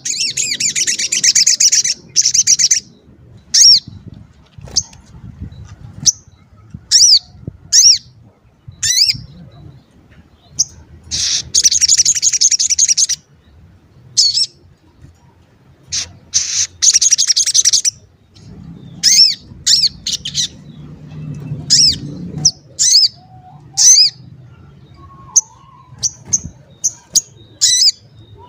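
Sogon bird singing a "cuit cuit" song: sharp, high, down-slurred single chirps repeated every second or so, broken three times by loud rapid rattling chatter phrases lasting about two seconds each.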